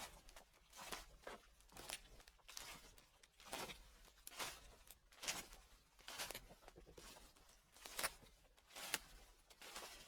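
Footsteps crunching through fallen leaves at a slow, even pace, about one step a second.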